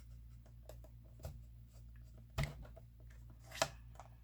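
Cardstock being handled and cut on a paper cutter: scattered light clicks and taps, with three sharper knocks, the loudest about two and a half seconds in.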